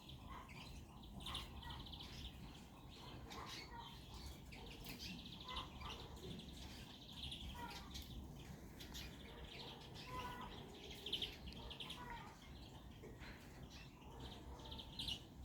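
Small finches, Eurasian siskins among them, chirping and twittering faintly in short repeated trills, with a few light clicks between the calls.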